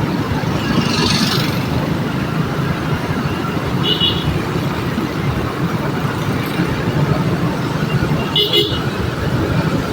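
Steady rumble of road traffic with two short, high-pitched vehicle horn toots, about four seconds in and again near the end.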